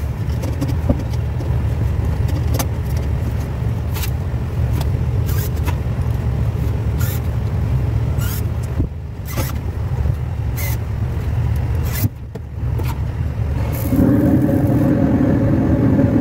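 Steady low machinery rumble with scattered light metallic clinks and taps as burners are fitted back into a gas furnace's burner rack; a steady hum joins about 14 seconds in.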